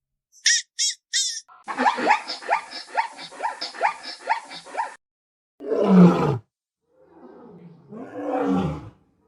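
A string of different animal calls: three brief high chirps, then a rapid run of repeated calls for about three seconds, then a loud low roar falling in pitch, and a second, quieter growl near the end.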